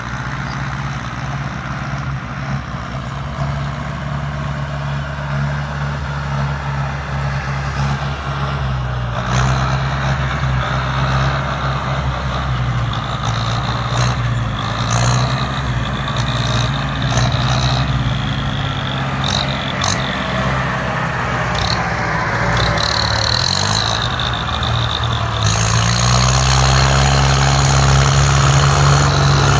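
Ford farm tractor's diesel engine running steadily while pushing and grading dirt. Intermittent high-pitched squeals come through in the middle, and the engine note gets louder in the last few seconds.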